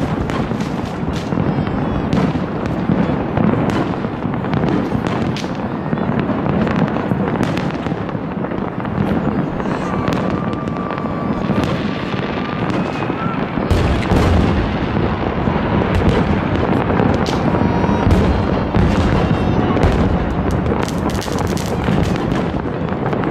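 Massed fireworks display: a dense, continuous barrage of shell bursts and crackling bangs with no gaps, growing heavier and deeper about fourteen seconds in.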